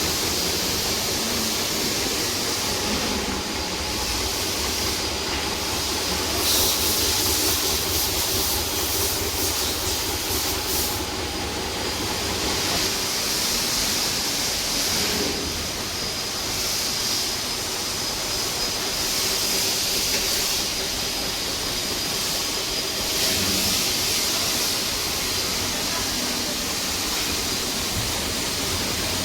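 CNC milling machine running, a steady mechanical hum with hiss and a thin high whine, with stronger hissing from about six to eleven seconds in.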